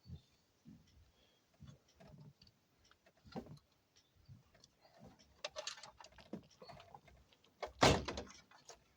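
Scattered small clicks and taps of hand tools and small parts being handled. They come thicker later on, with a louder knock and rattle a little before the end.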